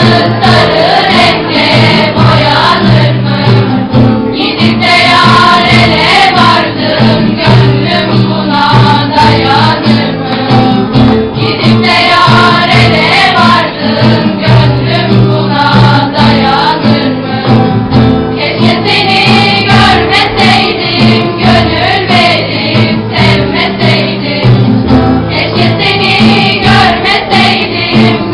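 A song being performed: singing over instrumental accompaniment, loud and continuous.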